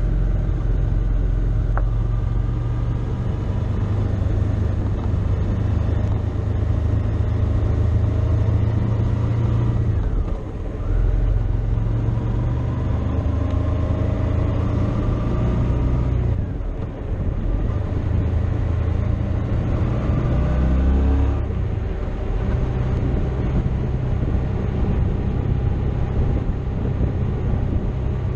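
Motorcycle engine running under way with heavy road and wind noise. The engine note drops off briefly twice, as at a throttle lift or gear change, and later rises in pitch as it accelerates.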